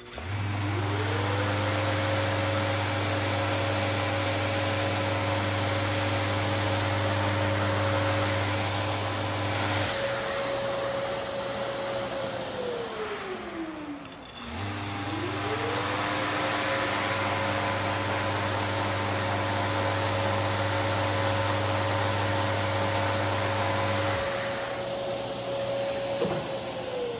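Handheld electric power tool switched on twice, working on the carbon rigger. Each time it spins up quickly to a steady whine for about ten seconds, then is switched off and winds down with a falling tone over a few seconds; the second run starts about halfway through.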